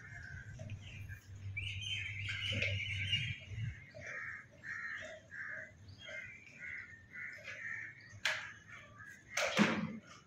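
A bird calling over and over, short harsh calls at about two a second, over a low steady hum that stops a few seconds in. Two sharp knocks come near the end.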